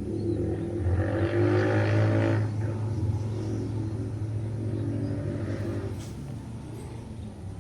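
A motor vehicle engine accelerating past, loudest between about one and two and a half seconds in, then fading away, over a steady low hum.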